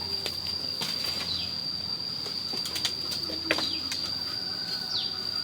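A steady high-pitched insect trill, with a few short bird calls that fall in pitch and scattered light knocks.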